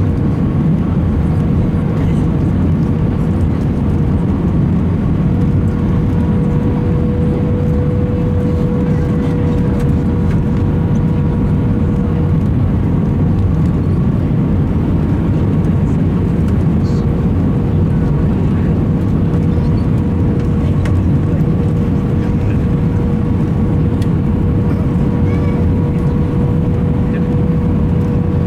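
Airbus A320 cabin noise on the landing approach: a steady, loud rush of airflow and engine drone with a constant tone running through it.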